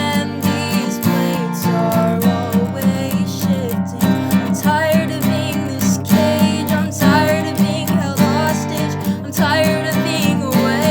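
Acoustic guitar strummed in a steady rhythm, playing an acoustic song.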